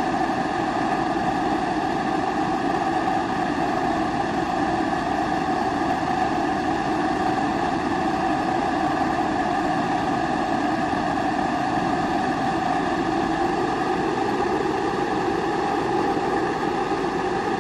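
Pressurised kerosene stove (a Primus-type babour) burning, its flame giving a steady, even rushing sound that holds unchanged throughout.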